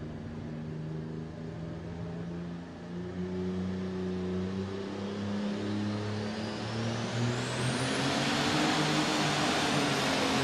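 Alcohol-burning super stock pulling tractor's engine running hard under load, its low notes shifting in steps. From about halfway in, a high turbocharger whine rises steeply in pitch while the sound grows steadily louder.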